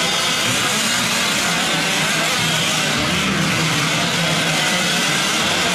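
Small two-stroke gas engines of several fifth-scale RC trucks running together during a race, a steady buzzing drone that wavers as the throttles open and close.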